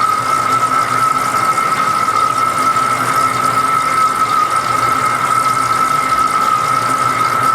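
Metal lathe turning a large part, with a steady high-pitched squeal from the cut over the machine's constant running noise.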